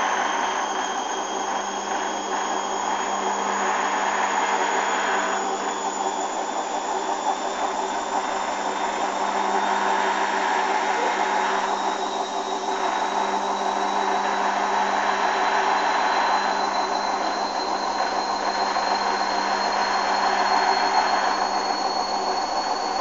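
Hoover washing machine running a spin, its motor whining with a pitch that rises slowly and steadily as the drum speeds up.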